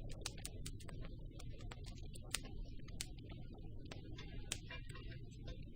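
Campfire burning with a steady low rumble of flames and many irregular crackles and pops from the wood.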